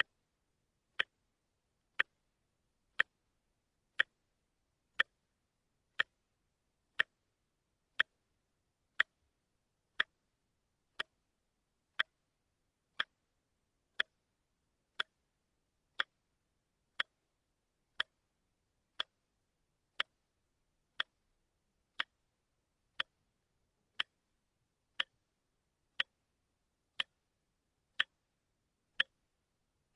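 A wristwatch ticking steadily, one short sharp tick each second, the beat of a quartz movement.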